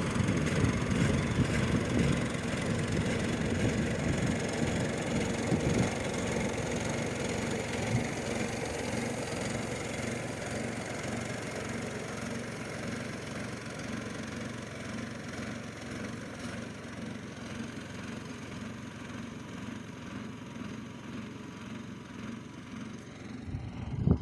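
Mini tractor engine running steadily, growing gradually fainter over about twenty seconds, with a short loud bump near the end.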